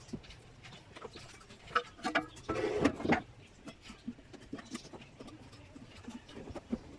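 Scattered light clicks and knocks of tools and parts being handled during repair work, with a brief scraping rush about two and a half seconds in.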